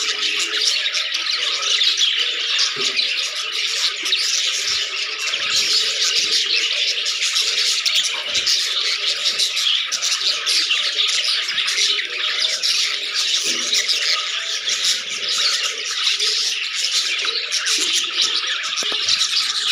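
A flock of budgerigars chattering and chirping continuously, many birds calling over one another at once, with occasional squawks.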